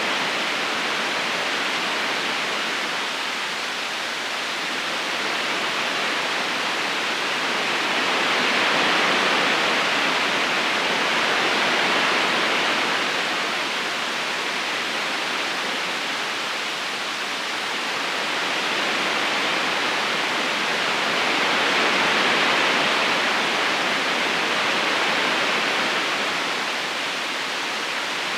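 River current flowing: a steady rush of water that swells and eases slowly every several seconds.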